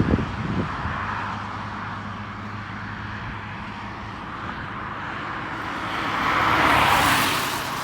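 Jet airliner engine noise at an airport: a steady low hum, then a broad rushing swell that builds about six seconds in and peaks near the end.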